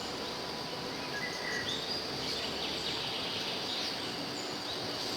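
Short, scattered bird chirps, starting about a second in, over a steady high hiss of outdoor ambience with insects.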